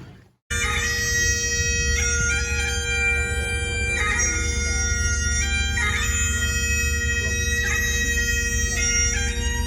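Highland bagpipes playing a tune over steady drones, starting suddenly about half a second in.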